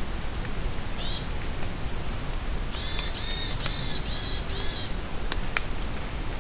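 Steady rain with a bird calling: one short call about a second in, then a run of five loud calls in quick succession around the middle. A few sharp drip clicks.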